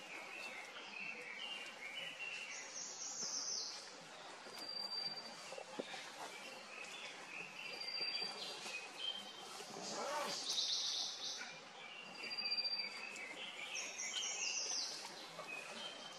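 Wild birds calling in the surrounding trees: short high whistled notes repeated every few seconds, and runs of quick chirps stepping down in pitch, over a steady outdoor hiss.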